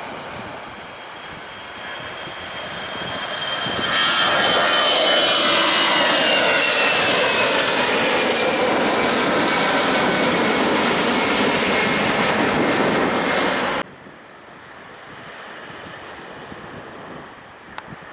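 Jet airliner passing low overhead: the engine noise builds, then holds loud with a high whine that slides steadily down in pitch as the aircraft goes by, and cuts off abruptly a few seconds before the end, leaving wind and surf.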